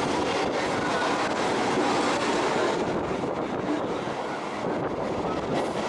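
Mumbai suburban local train running, a steady rumble of wheels on the track, easing a little in the second half.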